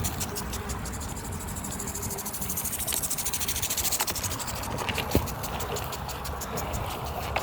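Rapid, even ticking of a BMX's freewheel rear hub as the bike rolls without pedalling, over a steady low rumble of tyres and wind. A couple of sharp knocks come about four and five seconds in.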